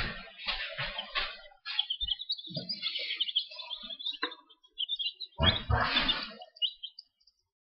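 Meat-bird chicks peeping, a stream of short high chirps. Thumps and rustling come at the start and again from about five and a half to six seconds in.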